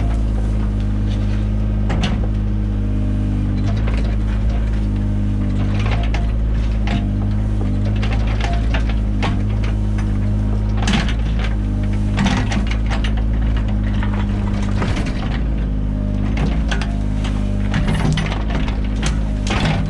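Mini excavator engine running steadily under load, with scattered knocks and clinks as it digs, more of them in the second half.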